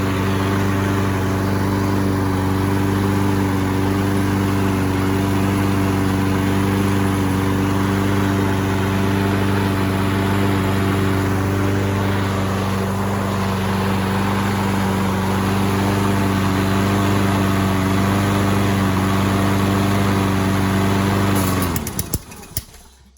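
Kohler Courage XT7 single-cylinder lawn mower engine running at a steady speed after a carburetor cleaning, then switched off about 21 seconds in, its pitch sinking as it winds down to a stop.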